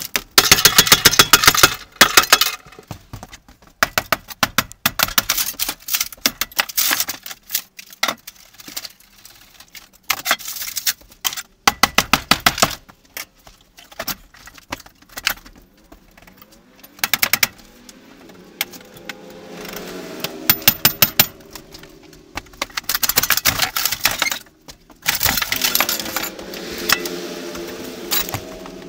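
Demolition work inside a camper: repeated bursts of rapid metallic rattling and clattering. A lower hum with a slightly sliding pitch comes in during the last third.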